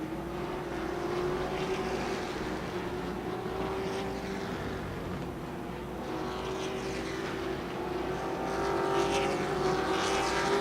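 Race trucks' engines running hard around a short oval track, a steady multi-engine drone whose pitch drifts slightly and whose level swells and fades as the trucks pass, growing louder near the end.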